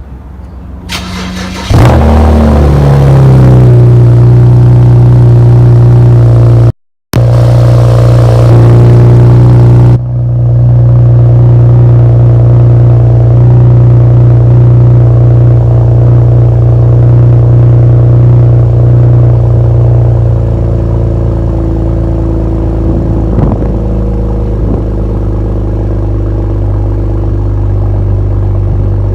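BMW 335i's N54 twin-turbo straight-six, muffler deleted with the stock flap kept, starting up about two seconds in. The revs flare and fall into a loud, steady idle drone, which steps down slightly about two-thirds of the way through. There is one brief silent break about a third in.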